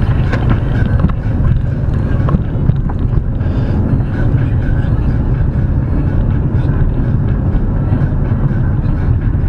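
Car driving: a steady low road and engine rumble, with a few faint knocks.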